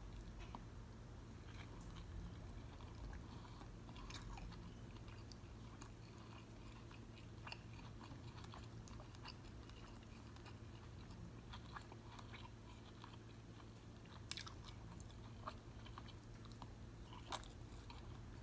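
A person chewing food close to the microphone: soft, quiet mouth clicks and smacks throughout, with a couple of sharper crunches near the end.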